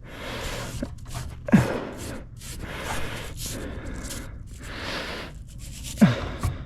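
A brush scrubbing the dirty fins of an HVAC evaporator coil in repeated scraping strokes. Two sharp knocks stand out, one about a second and a half in and one near the end.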